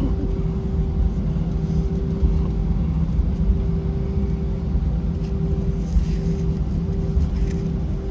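Jet airliner engines heard from inside the cabin: a steady low rumble with a constant hum.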